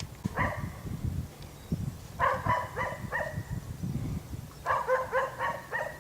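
A dog barking in quick runs: one bark near the start, then a run of about four and another of about five, with a low rumble underneath.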